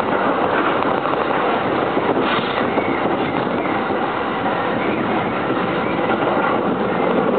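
JR East Narita Line commuter electric train running at speed, heard from inside the carriage: a steady rumble of wheels on rail, with a brief brighter rush about two seconds in.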